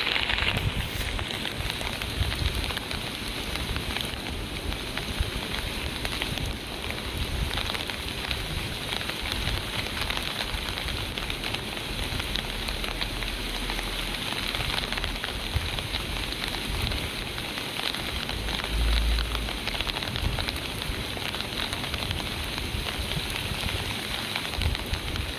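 Steady rain falling in a forest: a dense, even hiss of drops, with many small separate drips ticking through it.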